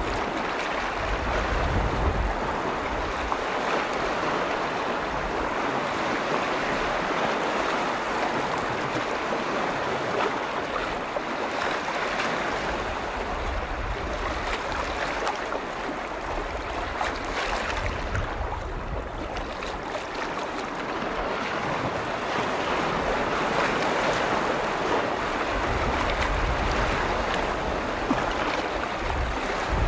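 Lake waves washing against the shore, a steady rush that swells and eases every few seconds, with low wind rumble on the microphone.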